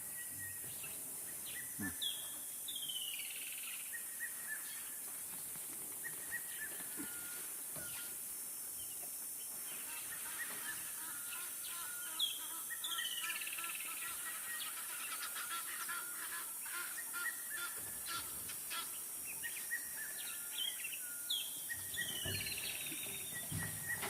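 A bird calls three times, roughly every nine or ten seconds. Each call is a short high note followed by a falling run of notes. Fainter bird calls and a steady high hiss run underneath.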